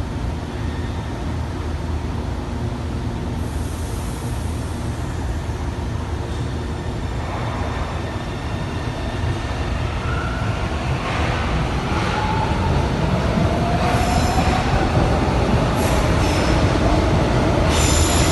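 São Paulo metro train running on the rails: a steady low rumble that grows louder in the second half, with a slowly rising tone and short high wheel squeals near the end.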